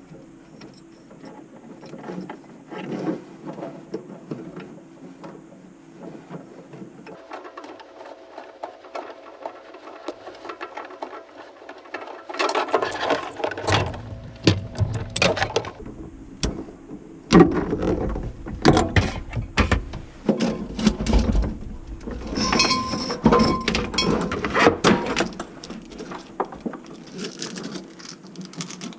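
Irregular clicks, knocks and clanks of tools and hard parts being handled during plumbing work, sparse at first and busier and louder from about halfway through.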